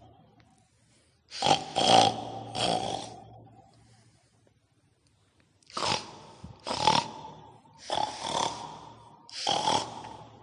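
Harsh pig-like snorts and grunts in short rasping bursts. There is a cluster of them about a second in, a pause, then a run of them from about six seconds in.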